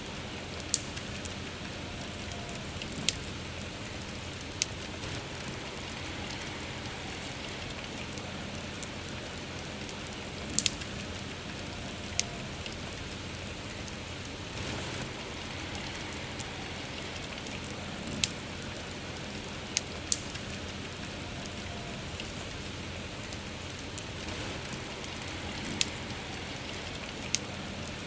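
Steady rain hiss mixed with a wood campfire, whose about a dozen sharp crackles and pops stand out at irregular moments.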